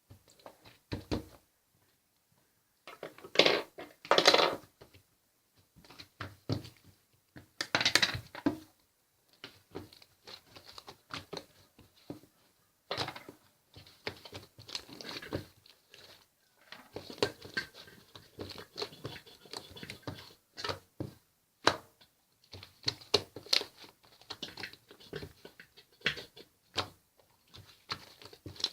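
Irregular crinkling, tapping and handling noises at close range, with a few louder bursts.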